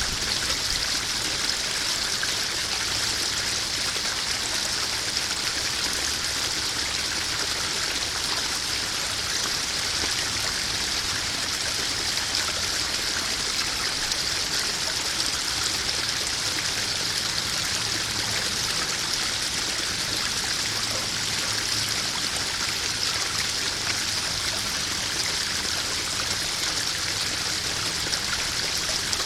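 Koi pond waterfall running steadily, water splashing and trickling into the pond.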